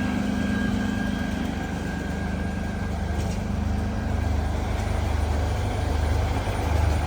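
Heavy vehicle engine idling steadily with a low hum, most likely a fire apparatus standing at the scene.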